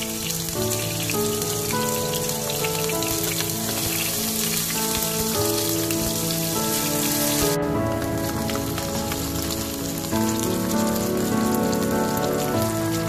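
Chopped garlic and chillies frying in hot oil in a wok: a steady crackling sizzle that drops suddenly to a softer sizzle a little past halfway. Background music of held notes plays over it.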